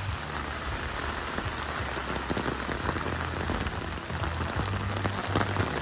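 Steady rain falling, with many separate drop impacts, and a low rumble coming and going underneath.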